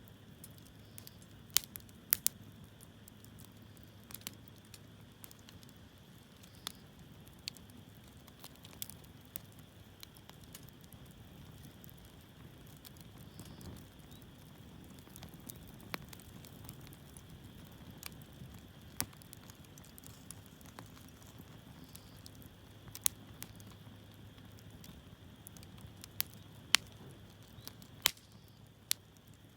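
Hardwood firewood burning in a campfire, crackling with sharp pops at irregular intervals, a few much louder than the rest, over a faint steady low rumble of the flames.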